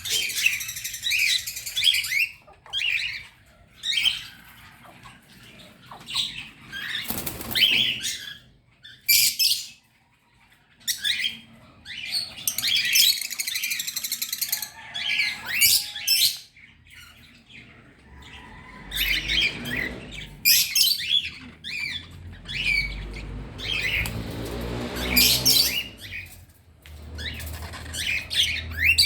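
A group of small birds chirping and squawking together in repeated noisy bursts of high calls, with short pauses between. In the second half a low rumble runs underneath for several seconds.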